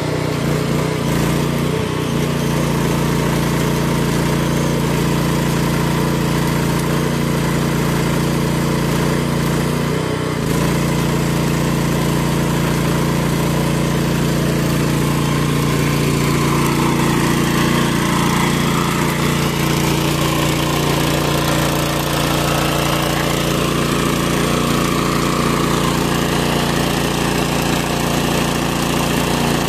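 An engine running steadily at a constant speed, with a brief dip about ten seconds in.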